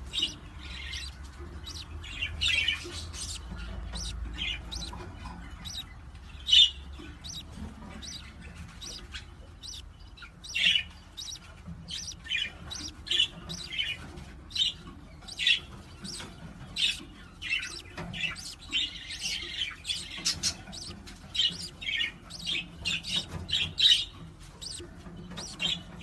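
A bird chirping over and over: short high calls in quick, irregular succession, a few of them louder than the rest.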